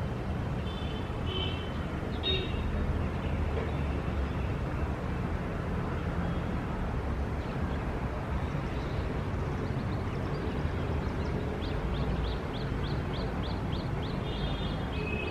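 City ambience: a steady low rumble of distant traffic, with birds chirping over it, short calls about a second and two seconds in and a quick run of repeated chirps, about four a second, in the last few seconds.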